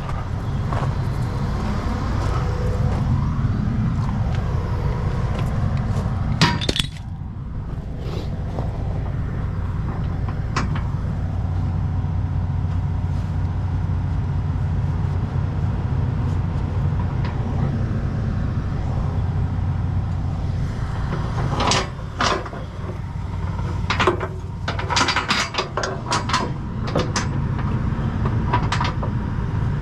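Heavy diesel truck engine idling steadily, with sharp metallic clinks and clanks of chain rigging about six seconds in and again several times in the last eight seconds.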